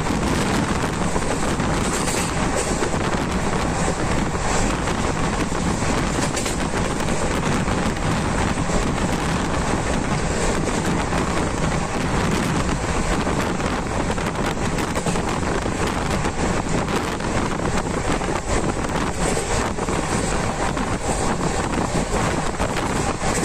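Steady rushing running noise of a moving train, mixed with wind buffeting the microphone.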